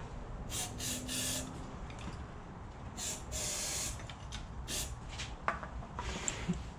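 Aerosol starting fluid sprayed in about five short hisses into the open intake ports of an old Honda CB250 engine, priming it before it is cranked.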